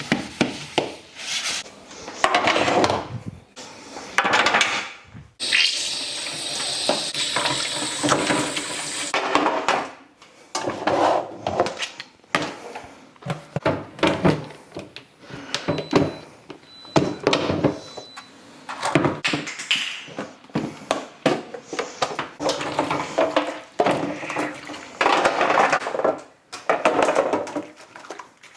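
Fridge shelves and bins knocking and clattering in a kitchen sink as they are washed, with a tap running hard for about four seconds starting about five seconds in.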